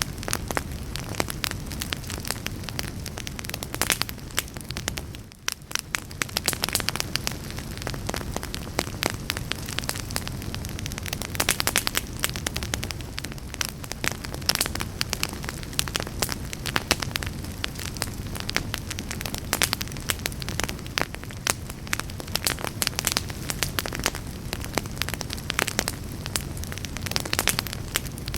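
Fire burning in a fireplace, crackling with many irregular sharp pops over a steady low rush of flame, with a brief lull about five seconds in.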